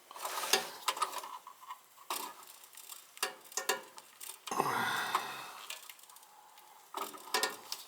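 Irregular small clicks and taps of wires and plug-in connectors being handled and pushed onto a furnace's wiring, with a short rustle about halfway through.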